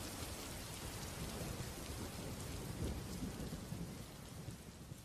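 Rain and thunderstorm ambience: steady rain hiss with low thunder rumbling beneath it, starting to fade out near the end.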